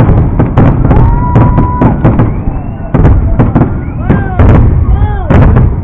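Fireworks display: many sharp bangs and crackles in quick succession over a continuous low rumble, with brief pitched whistling tones among them.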